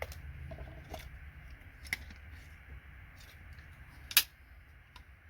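Hand tools and plastic connector parts clicking and snapping as a computer board connector is taken apart for its gold-plated pins. The sharpest snap comes about four seconds in, over a low steady hum.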